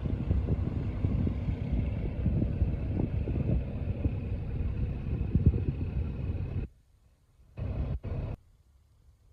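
Low engine rumble of a squid-fishing boat heading out of harbour. It cuts off suddenly about two-thirds of the way in, and a short burst of the same rumble comes near the end.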